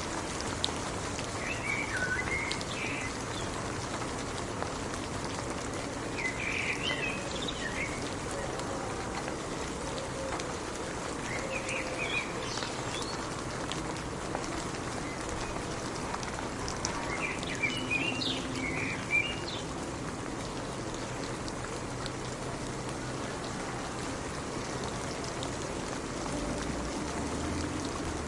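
Steady rain falling, with short bursts of bird chirps four times over it.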